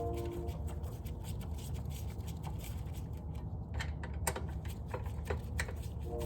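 Hand-tool work on a snowblower: a few light, irregular clicks and taps of a screwdriver and metal parts, most of them in the second half, over a steady low hum.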